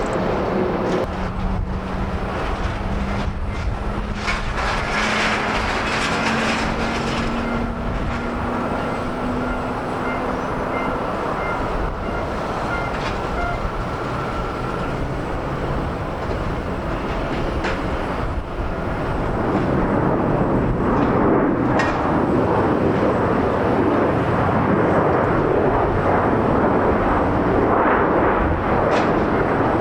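Jet airliner engines heard on a landing approach: a steady rush with a faint tone slowly rising in pitch, growing louder about two-thirds of the way through as the aircraft comes closer.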